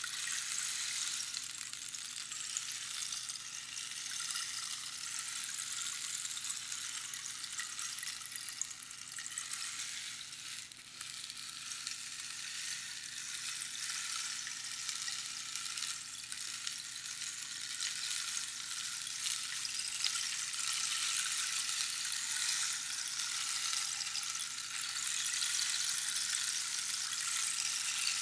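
Rainstick: pebbles or beans trickling down over the pins inside the hollow tube, giving a continuous rain-like hiss with a brief dip about eleven seconds in.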